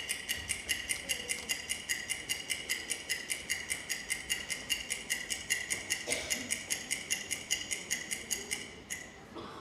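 Rapid, evenly spaced ticking or tapping, about six a second, with a ringing tone under it; it stops near the end.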